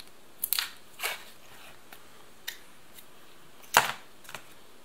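Ration packaging being handled: a few short sharp clicks and crinkles, the loudest about four seconds in.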